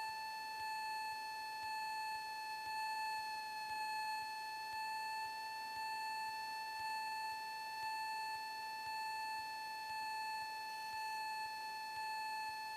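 Steady high-pitched electronic whine with overtones, holding one pitch throughout, heard through an aircraft intercom audio feed with no engine noise coming through.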